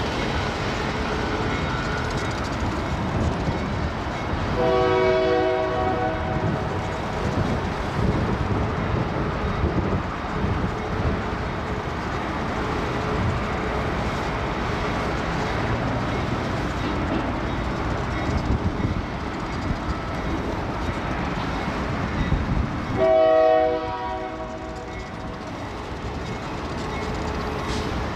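Diesel freight train with a locomotive in the lead rumbling past, its horn sounding twice: a longer blast about four seconds in and a shorter, louder one near the end.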